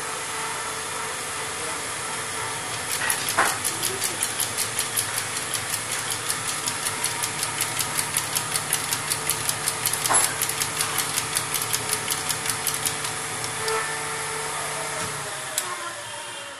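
A motor-driven machine, most likely the repaired diesel fuel injection pump turning on a test bench, runs with a steady hum, a hiss and a rapid, even ticking of about four clicks a second. About fifteen seconds in it winds down and stops.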